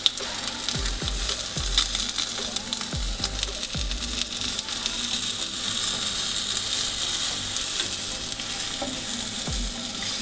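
Zucchini and egg batter frying in olive oil in a nonstick pan: a steady sizzle, with small scrapes and clicks from spatulas as the omelette is rolled up.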